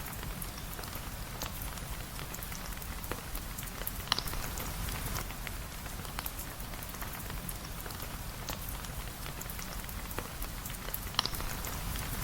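Steady rain with many small scattered drip taps, and two sharper pops, one about four seconds in and one near the end.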